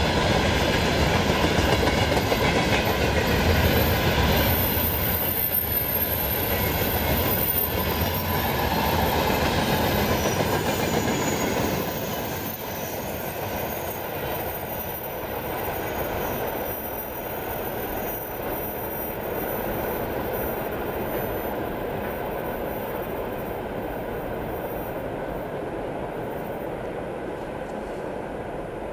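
An electric train running past on the line, its wheels clattering over rail joints and squealing, with steady whining tones. About twelve seconds in the sound drops off, and the train fades away as it recedes.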